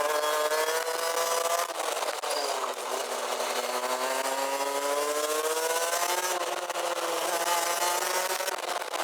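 Rotax Max DD2 kart's 125 cc two-stroke engine at racing speed, its pitch climbing steadily under acceleration, dropping as the throttle is closed about two seconds in, climbing through a long pull, then dropping and climbing again near the end. A hiss of wind rustle on the microphone runs underneath.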